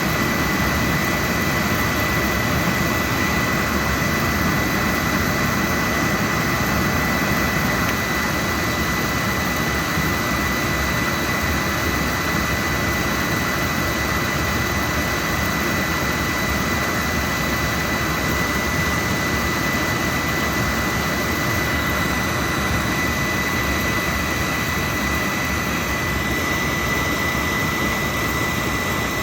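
Oil burner on a boiler firing steadily: a constant rushing noise from the blower and flame, with a thin, steady high-pitched whine running through it.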